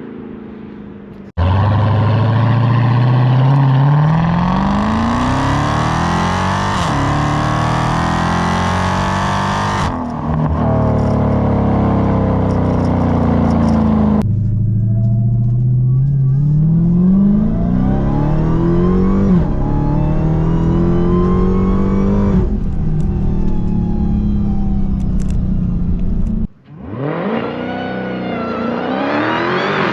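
Dodge Charger Hellcat's supercharged 6.2-litre V8, its mid-mufflers deleted, at full throttle: several hard pulls, each rising in pitch and dropping at every upshift, in separate clips that cut in and out.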